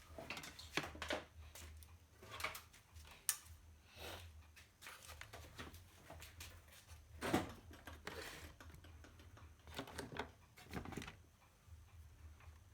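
Irregular small clicks, taps and rustles of wires and parts being handled, with a sharper knock about seven seconds in, over a low steady hum.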